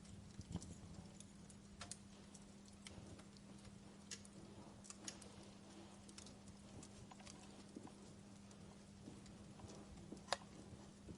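Wood fire in a fireplace crackling faintly, with scattered sharp pops, the loudest near the end, over a steady low hum.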